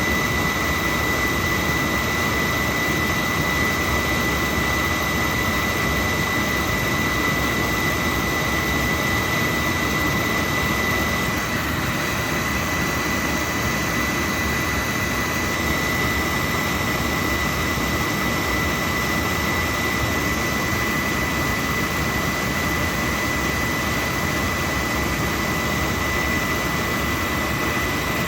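Oil-fired boiler's burner running: a steady roar of fan and flame with a thin, steady high whine running through it.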